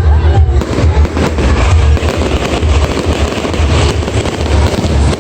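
Aerial fireworks going off in a rapid, continuous barrage of bangs and crackling over a deep rumble.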